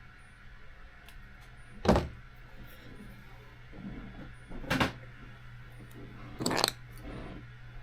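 Tape being pulled off its roll in three short rips, a couple of seconds apart.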